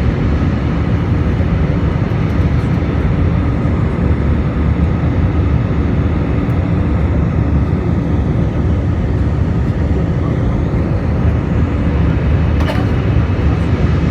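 Steady roar of a jet airliner's engines and airflow heard inside the passenger cabin during takeoff, deep and unbroken, with a faint click near the end.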